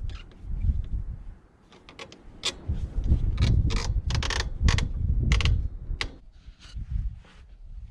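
Clicks and knocks of tools and engine parts being handled, densest from about two to six seconds in, over a low rumble.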